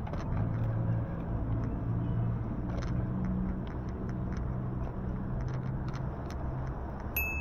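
A car engine running close by with a steady low hum, over road rumble and scattered faint clicks. The hum fades out near the end, as a single high-pitched ding rings out.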